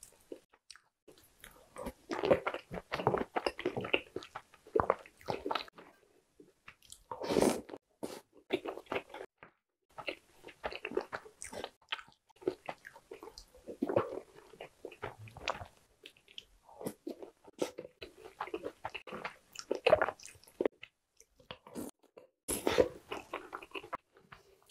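Close-miked chewing and biting of milk-soaked chocolate cakes and cookies, coming in bursts every few seconds with short pauses between.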